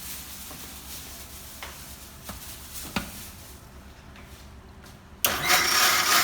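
A few light clicks and knocks, then an electric kitchen mixer-grinder switches on about five seconds in and runs loudly, grinding.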